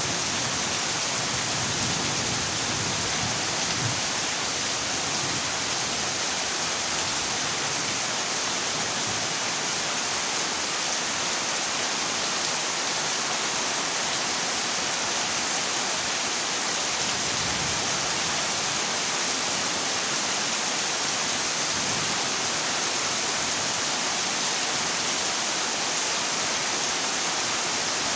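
Heavy rain drumming steadily on a corrugated zinc roof, an even, unbroken hiss of drops with no distinct thunderclaps.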